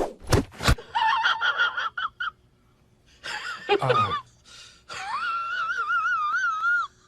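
Cat yowling: a few drawn-out wavering cries, one sliding sharply down in pitch about three and a half seconds in, then a long warbling yowl from about five seconds. A brief scratchy clatter opens it.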